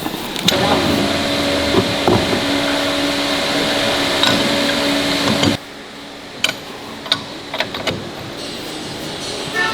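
A motor-driven workshop tool runs steadily with a hum for about five seconds, then stops abruptly. A few light metal clicks and taps follow.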